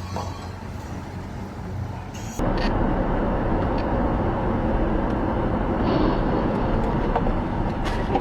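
Outdoor road traffic noise, cutting abruptly a couple of seconds in to a louder, rumbling stretch of traffic sound.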